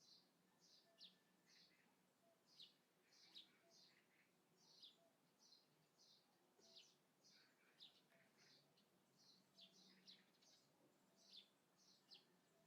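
Faint birdsong: a continuous run of short, high chirps that sweep downward, about two a second.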